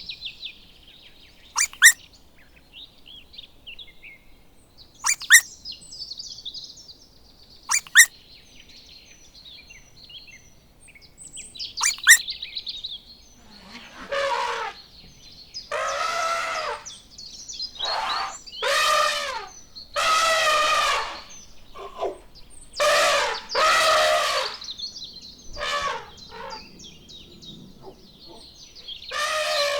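Birds chirping with sharp high calls, then from about halfway a run of louder pitched calls, each about a second long, typical of farmyard fowl.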